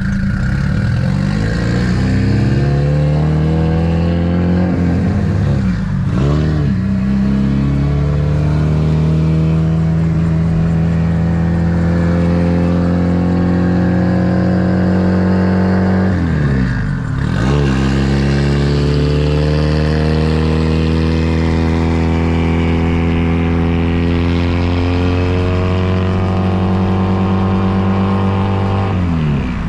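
Car engine running under load, its pitch climbing slowly and then dropping sharply three times, like an engine pulling up through the revs and shifting.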